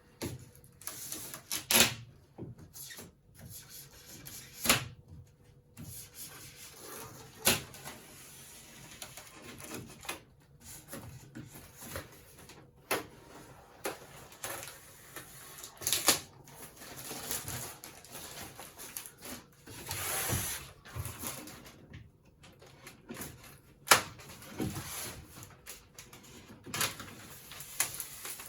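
Scissors cutting into a tumble dryer's cardboard and tape packaging, which is handled and pulled: irregular snips, clicks and knocks, with a longer rustling scrape about twenty seconds in.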